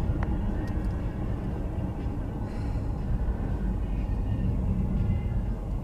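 Steady low rumble of a car driving, its road and engine noise picked up by a dashcam.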